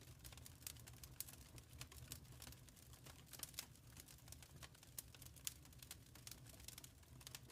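Wood fire crackling softly: irregular small pops and snaps over a low, steady rumble.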